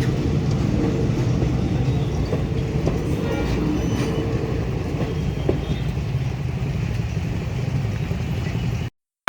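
Indian Railways train passing the level crossing with a steady low rumble, which cuts off suddenly near the end.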